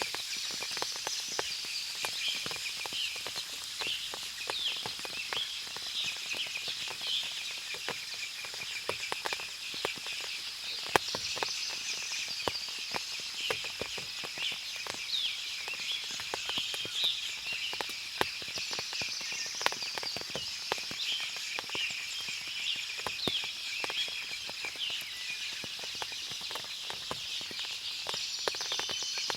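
Forest ambience after heavy rain: water dripping from the leaves in many light scattered ticks, under busy high bird chirps and trills and a steady high-pitched hum.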